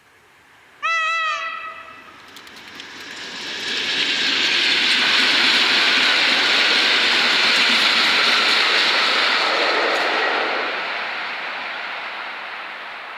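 An electric multiple unit train sounds a short horn blast about a second in. It then passes over the level crossing, its running noise swelling to a peak and fading away near the end.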